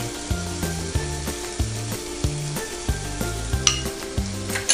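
Ghee and whole cumin and mustard seeds sizzling with onions and tomatoes in a hot enamelled cast-iron skillet, the ghee frying to bloom the spices. Background music with a low, stepping bass line runs underneath.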